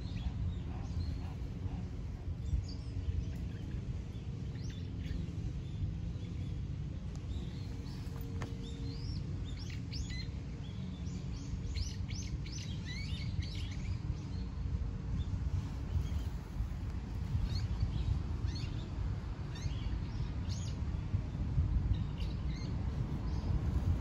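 Small birds chirping and trilling in short bunches, busiest about halfway through, over a steady low rumble that is louder than the birdsong.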